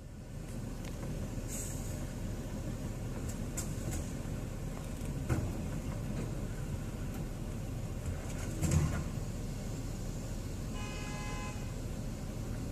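Steady low rumble of road traffic with a couple of dull knocks, then a short vehicle horn honk lasting under a second near the end.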